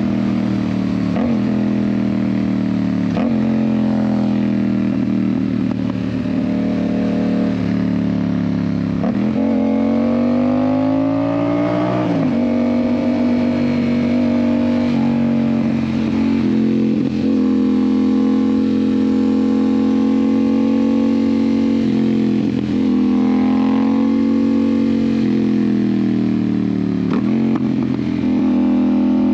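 Yamaha MT-07's parallel-twin engine through an aftermarket IXIL exhaust, ridden on the road at steady cruising revs. It revs up once, with a rising pitch, and drops sharply at a gear change about halfway through. Several smaller throttle changes and shifts follow.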